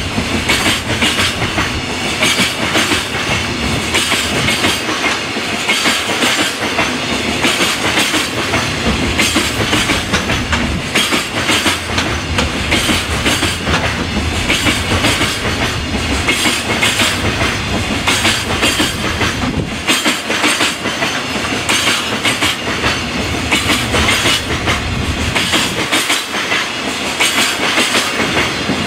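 Freight train's container flatcars rolling past, wheels clattering over the rail joints in a steady, rapid rhythm.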